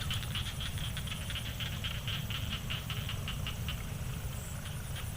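A chorus of small animals calling: rapid, irregular high clicking chirps, several a second, over a steady low rumble.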